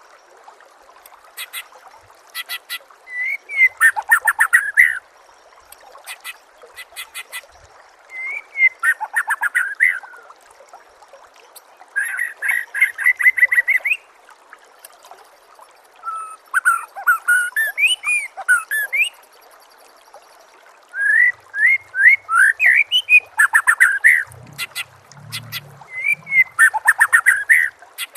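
Songbird singing in repeated bursts of a second or two: quick sweeping whistles and fast, sharp clicking notes, with short pauses between phrases and a steady faint hiss underneath.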